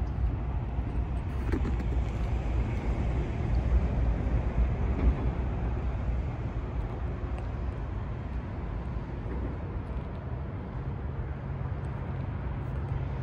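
1982 Porsche 911SC's air-cooled 3.0-litre flat-six idling steadily.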